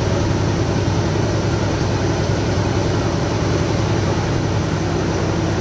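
Truck's diesel engine running steadily under way, with road noise, heard from inside the cab.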